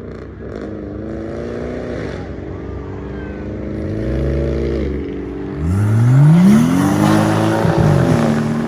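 A car engine revving with its pitch wandering up and down, then dropping. About five and a half seconds in it climbs steeply as the car accelerates hard, growing loudest just after six seconds with a rough exhaust rasp, and holds at high revs to the end.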